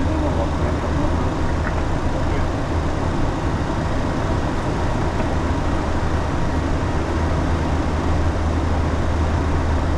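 Steady flight-deck noise of a Boeing 737 in flight: an even rush of air with a constant low hum underneath.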